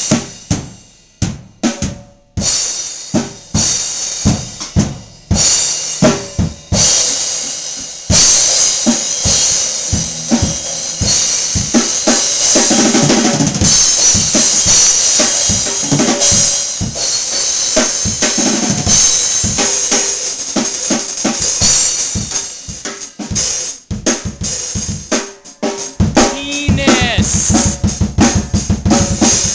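Drum kit being played: scattered single hits and short fills at first, then from about eight seconds in a continuous beat with bass drum, snare and a bright wash of cymbals. Near the end it breaks into a fast, even roll of low drum strokes.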